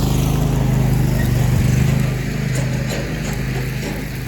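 Steady low mechanical hum like a running engine, with a few faint crackles.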